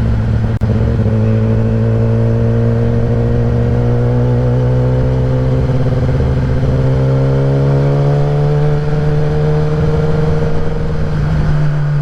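Kawasaki ZX-10R inline-four engine running through a Graves race exhaust as the bike pulls along, its pitch climbing slowly for most of the time and then dropping near the end as the throttle eases. There is a short click and dip in level about half a second in.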